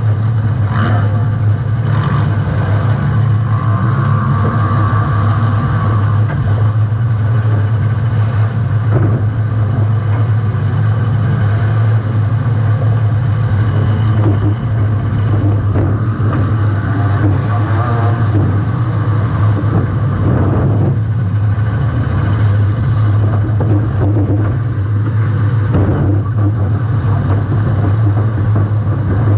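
Compact demolition-derby car's engine running hard and steady, recorded on board, with several knocks or bangs of impacts, about six across the stretch.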